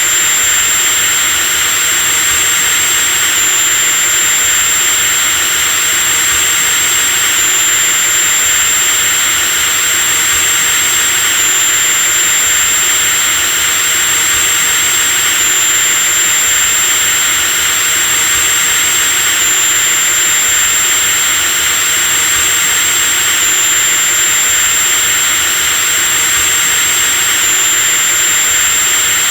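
Electric drill running continuously at full speed: a steady, loud motor noise with a high-pitched whine over a broad hiss. The whine shifts slightly in pitch about every four seconds.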